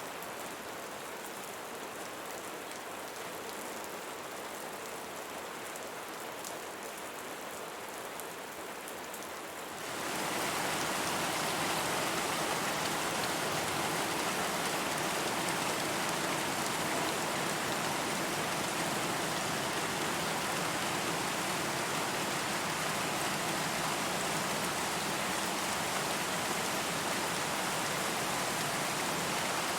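Rain falling steadily, with fine pattering drops. About a third of the way in, it changes suddenly to a louder, denser, even rush of heavy rain that holds steady.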